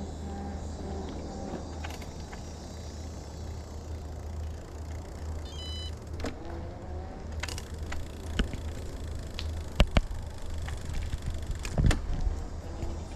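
Riding an e-bike along a path: a steady low rumble of wind and tyres, with a brief high beep about six seconds in and a few sharp knocks in the second half, the loudest a close pair about ten seconds in.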